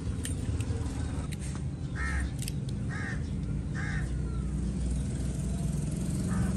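A bird gives three short, harsh calls about a second apart, with a fainter one near the end, over a steady low rumble. A few light clicks come from a knife working carrots.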